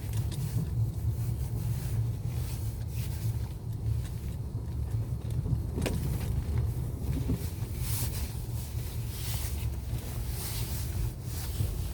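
Car's steady low rumble, with passing bursts of hiss and one short knock about six seconds in.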